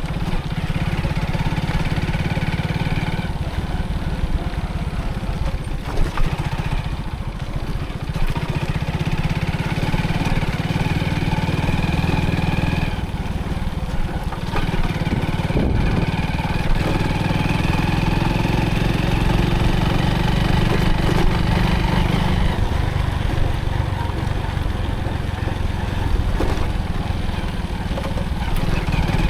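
Motorcycle engine running steadily under way, with a strong low rumble; the engine note shifts a few times.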